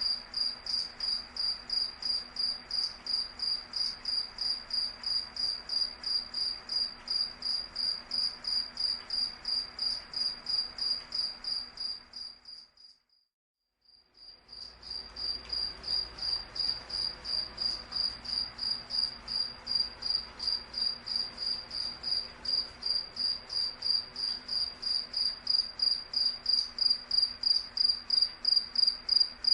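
A cricket chirping in an even, rapid rhythm of about three high-pitched chirps a second. About halfway through, the chirping fades out to silence for a second or two and then fades back in.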